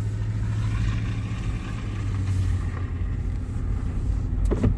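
A vehicle driving: a steady low engine and road hum, with a few sharp knocks near the end.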